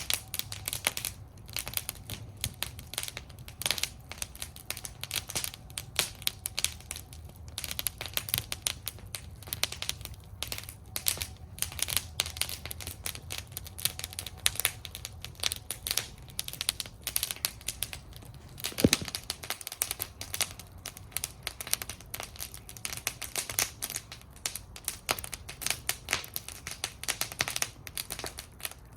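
Wood fire burning in a fire bowl, crackling with dense, irregular snaps and pops over a low steady rumble of flame. One louder pop comes about two-thirds of the way through.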